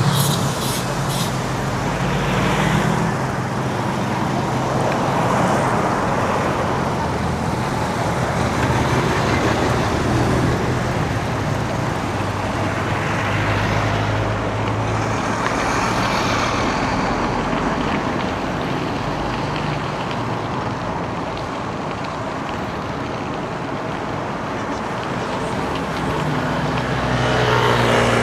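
Road traffic close by: cars and trucks passing one after another, engines humming and tyres hissing, with several vehicles swelling up and fading as they go by.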